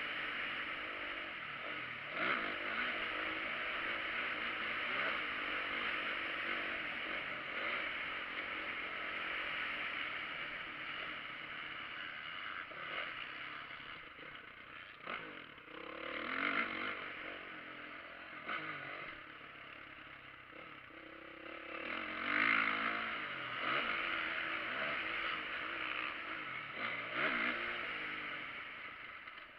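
Motocross dirt bike engine running and revving, its sound rising and falling in loudness with several sharp surges.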